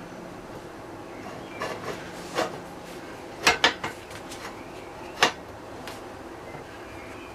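Workshop clatter: a few sharp metal clanks and knocks of tools or parts being handled. The loudest come as a quick run of three about three and a half seconds in, with a single sharp clank a couple of seconds later.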